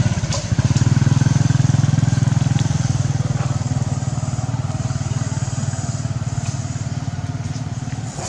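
A small engine running steadily, a loud low hum with fast, even pulses that eases off slightly near the end.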